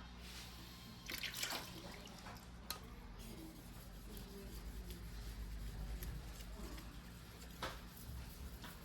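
Water dripping and splashing, with a few short splashes over a low steady hum, as water is used on the whetstone and knife.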